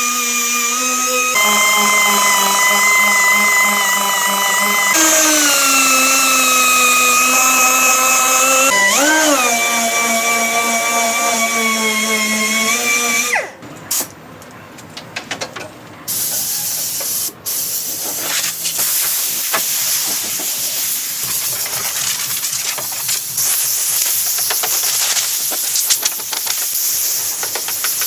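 A power tool's motor whining at a steady pitch that steps down a couple of times and dips and swoops once, then after an abrupt cut a steady hiss with scattered clicks.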